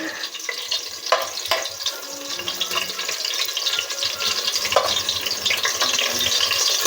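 Garlic sizzling and crackling as it fries in hot oil, with a few sharp clicks, perhaps of a spoon stirring against the pot.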